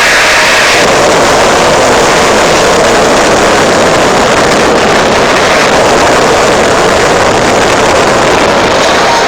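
Jet engine of a Peterbilt jet truck running at high power: a very loud, steady rush of noise, with a higher whine that fades out about a second in.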